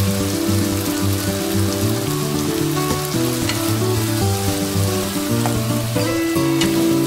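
Chicken pieces sizzling as they fry in a non-stick pan and are stirred with a wooden spatula, a steady hiss with scattered small crackles. Background music with low sustained notes plays throughout.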